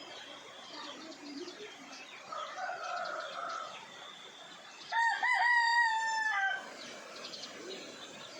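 A rooster crowing once, about five seconds in: a loud crow of about a second and a half that wavers at the start, then holds and drops away at the end. A fainter call comes a couple of seconds before it, and small birds chirp faintly throughout.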